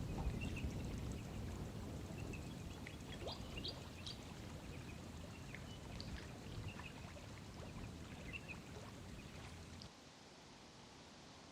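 Outdoor ambience: a low rushing noise that fades and drops off suddenly about ten seconds in, with many short bird chirps over it.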